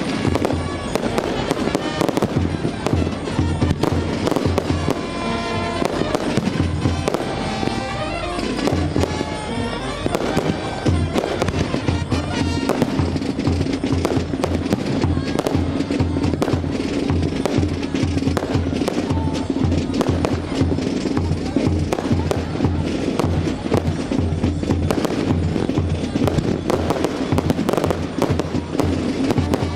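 Fireworks display: a rapid, continuous stream of bangs and crackles, with music playing along.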